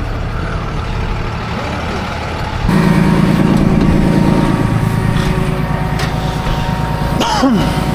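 Tow truck engine running under way, a steady low drone that steps up and gets louder about three seconds in. A short falling tone sounds near the end.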